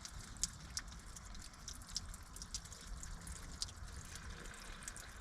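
Water trickling and dripping irregularly as the outdoor furnace's heating loop is drained.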